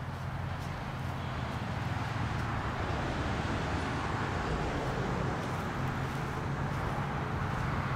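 Ford Lightning pickup's V8, fitted with a 2.3-litre Whipple supercharger, running steadily with a low engine note. It builds slightly over the first few seconds, then holds.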